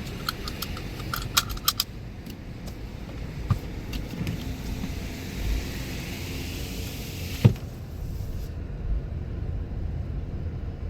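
A car idling, heard from inside the cabin, with a run of light clicks and rattles in the first two seconds and a single loud thump about seven and a half seconds in.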